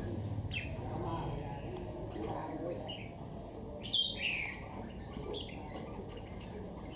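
Red-whiskered bulbul calling in short, scattered chirps that slide downward in pitch, the loudest about four seconds in.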